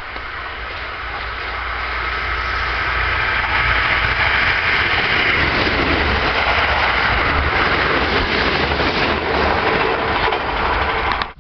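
Kintetsu limited express electric train running past, its rolling and motor noise growing louder over the first few seconds and then holding steady. It cuts off suddenly near the end.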